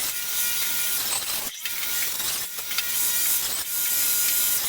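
A power saw cutting through a tree root: a steady, hissing cut with a faint whine, briefly breaking off about one and a half seconds in.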